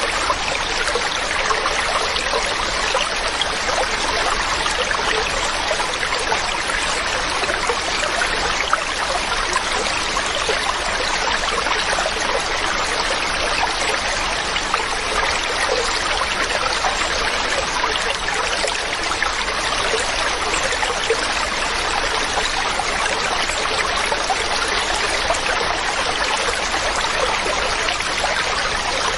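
Mountain stream running over rocks: a steady, unbroken rush and babble of water.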